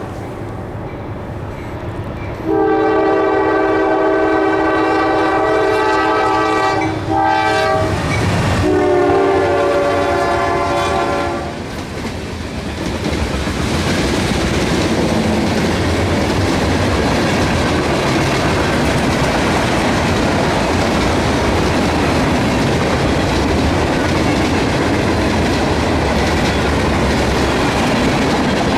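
Freight locomotive's air horn blowing as the train approaches, a long blast with a brief break, then dropping in pitch as the locomotive passes. After that the train rolls by, with steady wheel-and-rail noise and clickety-clack from the cars.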